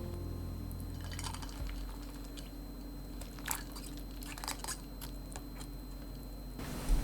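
Kitchen food-preparation handling sounds: a scattering of soft clicks and taps, a few of them crisp, with a faint steady hum underneath.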